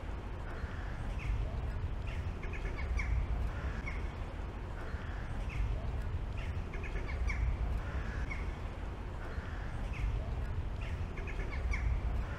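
Birds calling outdoors: short calls, often several in quick succession, recurring every second or two over a steady low street rumble.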